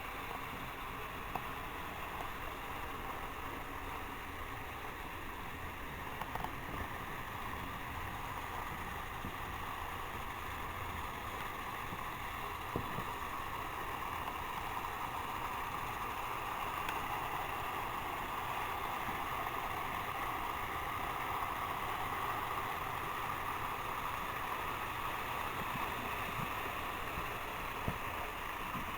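Several toy trains running on track: a steady whirring of their motors and rolling wheels, growing a little louder after the middle, with a few scattered clicks.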